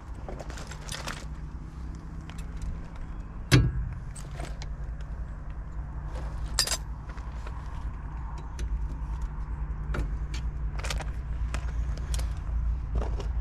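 Metal tools and brake parts clinking and knocking during work on a motorhome's front brake caliper, with one sharp metallic knock about three and a half seconds in. A steady low hum runs underneath.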